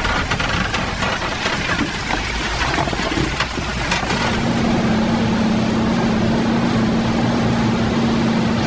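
An engine running steadily under a noisy clatter, with a steady low hum that comes in about four seconds in and holds.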